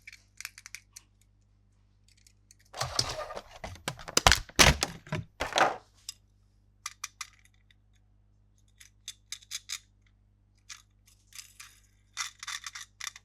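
Unboxing of a plastic toy playset: scattered light clicks and rustles of packaging and plastic parts being handled. There is a louder stretch of rustling and sharp knocks from about three to six seconds in.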